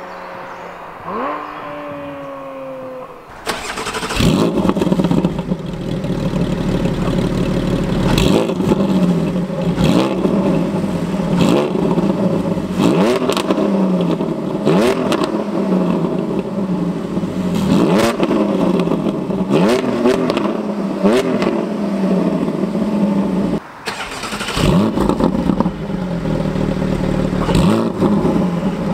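Porsche 718 GT4's flat-six with an Akrapovic exhaust, first winding down, then revved hard in repeated blips about once a second, with a short break near the end.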